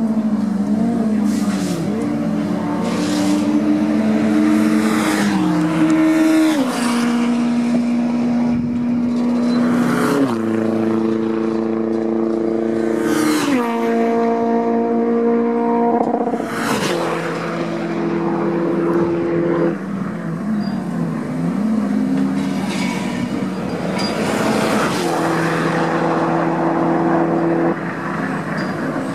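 Several touring race cars running at speed on a circuit, their engines revving and shifting gear, the pitches stepping up and down as the cars pass one after another.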